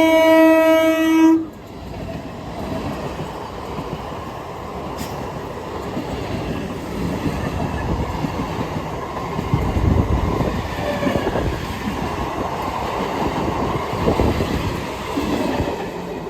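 Local passenger train's horn sounding one blast that stops about a second and a half in, then the train running along the track: a steady rumble with wheel clatter that gets louder toward the middle.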